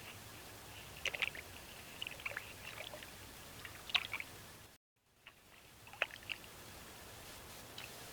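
North American beaver gnawing and handling branches at the water's edge: scattered sharp, wet crunches and cracks in small clusters. The sound cuts out briefly just before the fifth second.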